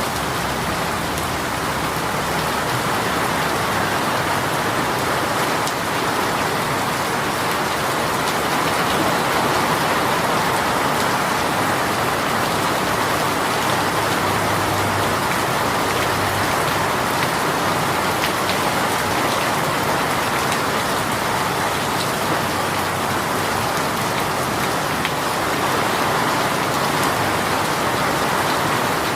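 A heavy rain shower falling steadily: a dense, even hiss of rain with scattered sharp drop ticks.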